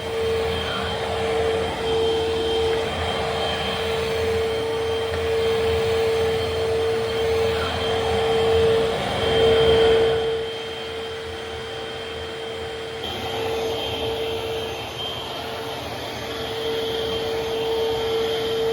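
Eureka vacuum cleaner running, a steady motor whine over rushing air. It swells louder about ten seconds in, then drops noticeably quieter.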